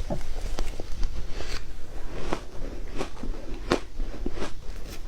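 Ice being bitten and crunched between the teeth: a run of irregular sharp crunches, about one or two a second, the loudest a little past the middle.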